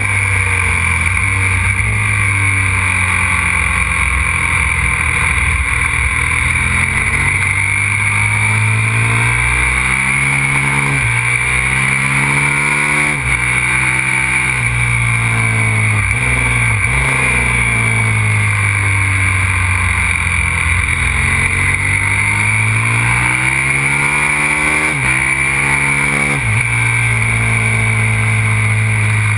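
Aprilia RXV 550 supermoto's V-twin engine, heard onboard at speed, revving up and dropping back again and again as the bike accelerates, shifts and slows for corners around a track.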